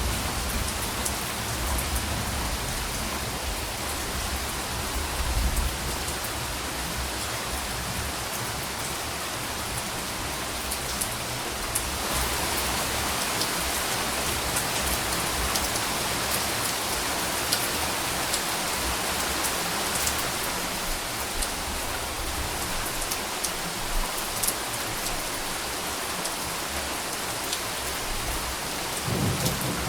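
Steady rain falling on a surface, with scattered sharp drip ticks through it. Low rumbling thunder begins to build in the last second.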